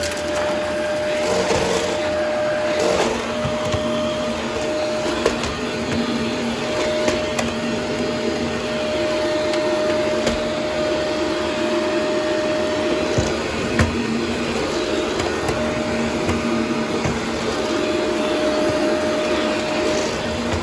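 Upright vacuum cleaner running with a steady motor whine while its brushroll picks up crunchy debris, with a few sharp cracks along the way. The whine drops out briefly about two-thirds of the way through, then comes back.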